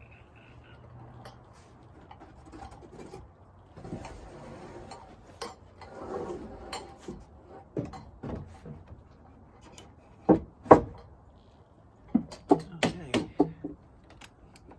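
Wooden deck boards being handled and knocked into place: faint rubbing and shuffling of lumber, then two loud knocks about ten seconds in and a quick run of about eight sharper knocks near the end.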